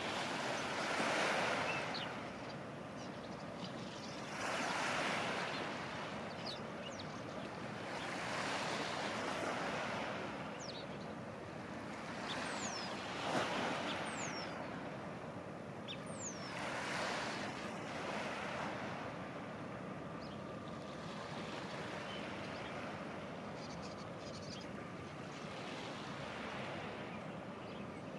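Waves washing onto the shore, a broad rushing swell about every four seconds over a steady background of surf and wind.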